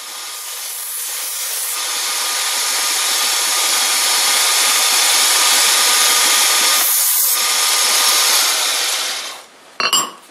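Power tool running on a metal lathe part, a steady rough hissing noise that builds up over the first couple of seconds and stops near the end, followed by a couple of clicks.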